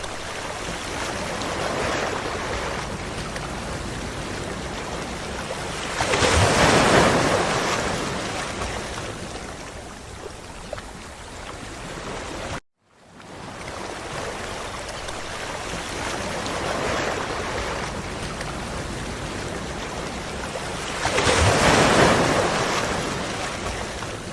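Ocean waves washing onto a beach, with a steady hiss of surf and a louder wave breaking about 6 seconds in and again about 21 seconds in. About 13 seconds in the sound cuts out to silence for a moment, then resumes.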